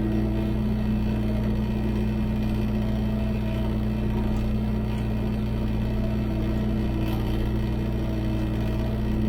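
Engine of farm machinery running at a steady speed, a constant drone that does not rise or fall.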